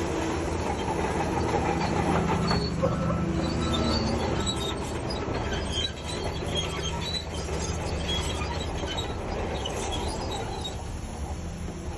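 Crawler bulldozer's diesel engine running steadily under work, with its steel tracks giving many short high squeaks.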